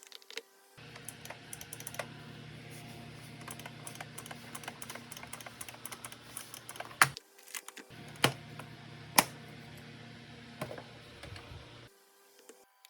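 Rapid light clicks and taps of small plastic parts being handled, over a low steady hum. Three sharper, louder clicks come a little after the middle.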